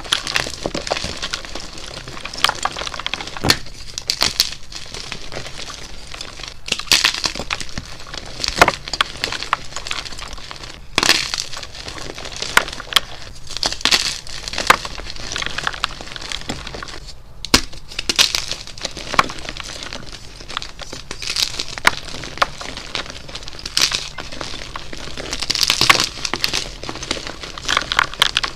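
Blocks of gym chalk being crushed, giving a run of sharp, irregular crunches and cracks with a gritty crumbling hiss between them.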